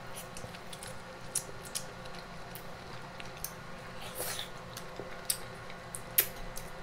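Close-miked chewing of a big mouthful of king crab coated in creamy alfredo sauce: scattered wet mouth clicks and smacks, the sharpest ones near the end as she licks sauce off her fingers.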